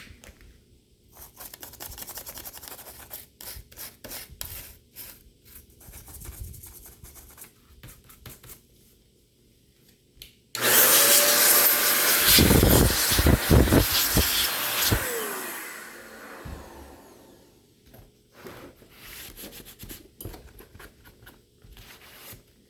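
Small handling clicks, then about ten seconds in a loud hiss of compressed air blown into the open laptop for about five seconds, with a short falling whine near its end before it fades away.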